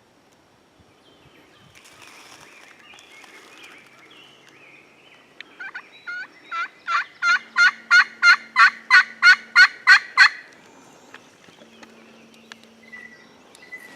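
Wild turkey calling: a long series of about fifteen yelping notes, three or four a second, each dropping in pitch. The notes grow louder over about five seconds, starting about five seconds in.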